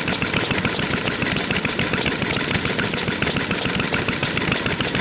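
Vintage stationary farm engines (hatsudōki) running steadily, a fast, even chugging that does not let up.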